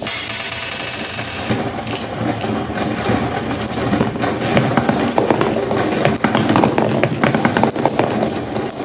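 Marbles rolling down a marble run, a continuous rolling rumble with many small clicks as they knock against the track and each other.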